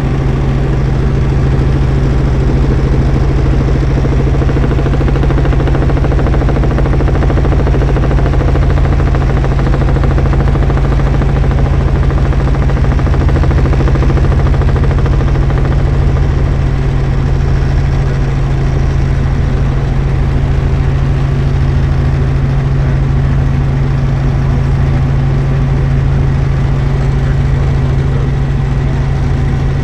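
Helicopter in flight, heard from inside the cabin: a loud, steady drone of engine and rotors with a constant low hum.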